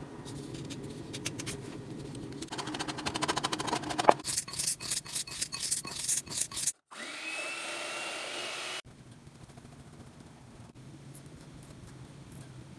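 Kitchen food-preparation sounds in short cuts: repeated scraping strokes that quicken and grow louder about four seconds in, then, after a brief break, about two seconds of steady whirring, then fainter handling noise.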